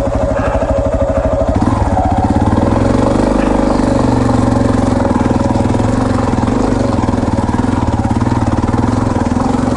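Yamaha Serow 250's air-cooled single-cylinder engine ticking over in first gear, then about two seconds in picking up revs and pulling steadily under load up a steep dirt climb.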